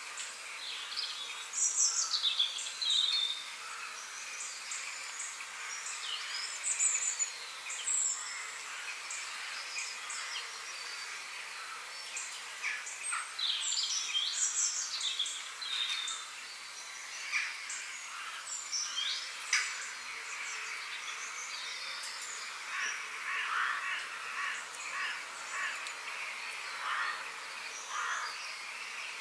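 Birdsong: several small birds chirping and calling in short, quick notes that sweep up and down, over a steady background hiss.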